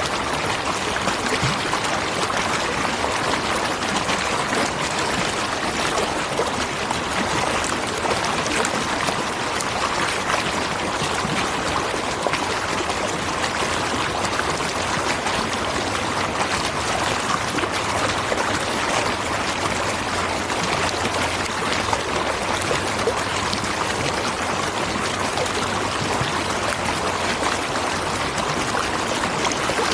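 A natural waterfall: water falling and splashing in a steady, unbroken rush.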